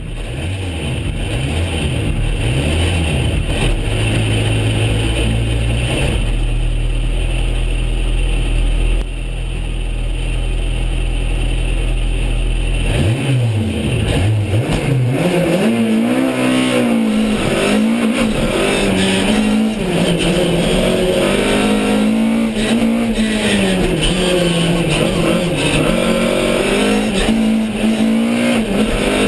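Simca Rallye 3's rear-mounted four-cylinder engine, heard from inside the cabin. It holds steady revs for roughly the first half, then revs rise and fall over and over as the car is driven hard with repeated gear changes.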